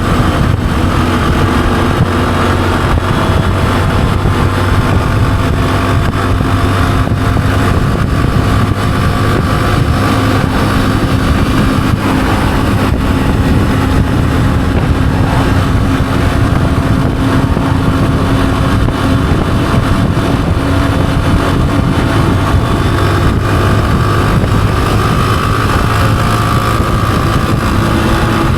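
Honda CG125's single-cylinder four-stroke engine running steadily while riding at a near-constant cruise, its pitch holding almost level throughout.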